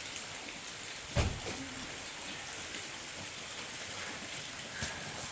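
A steady hiss, with one dull thump about a second in.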